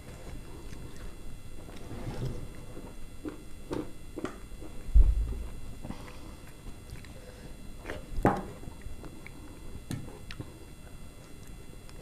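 Close-miked eating: chewing and lip smacks with scattered small clicks as rice and egg curry are eaten by hand. A single low thump comes about five seconds in.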